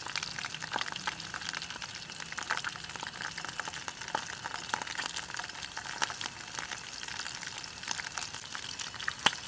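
Eel pieces deep-frying in hot oil in a small pot, sizzling steadily with many small crackles and pops of spitting oil. There is one sharper pop near the end.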